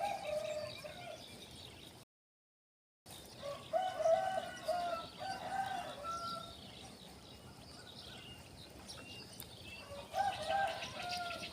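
A rooster crowing three times: once at the start, a longer broken crow about four seconds in, and again near the end. The sound cuts out completely for about a second shortly after the first crow.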